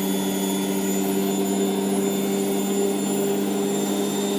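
Hotpoint Aquarius WMF720P washing machine on its fast spin, the drum and motor running with a steady, even hum.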